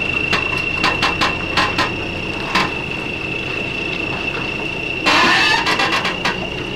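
British Rail Class 303 electric multiple unit cars rolling slowly along the track, with a steady high squeal and irregular clicks and knocks from the wheels over the rails. A brief loud rush of noise comes about five seconds in.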